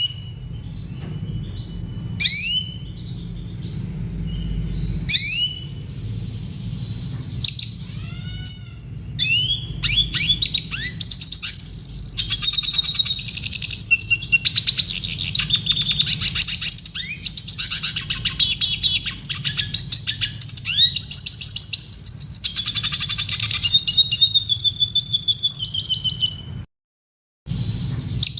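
Red siskin singing: a few separate rising call notes at first, then from about ten seconds in a long, fast, twittering song of trills, stopping abruptly shortly before the end. A steady low hum runs underneath.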